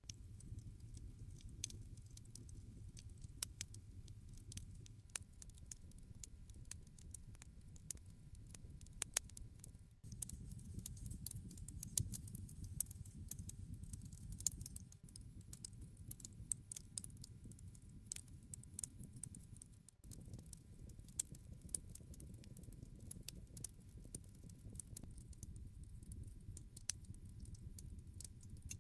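Wood fire crackling quietly: irregular sharp pops and snaps over the low, steady noise of the burning flames.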